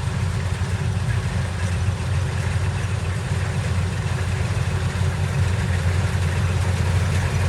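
Engine running steadily at an even speed, with a strong low hum.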